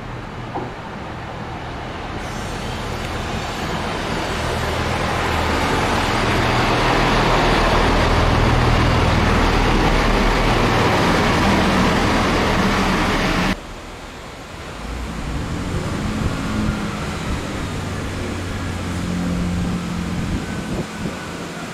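A train running past close by, its engine and wheel noise building to a loud steady rush that cuts off abruptly about 13 seconds in. It is followed by a quieter, steady engine drone with low tones.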